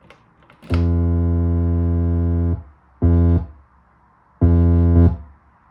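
Three notes from an analogue synthesizer played from the EMS 256 controller: one long, one short and one medium, all at the same steady low buzzy pitch with abrupt starts and stops. The pitch does not change between keys because the 256's pitch control voltage on this layer is not working.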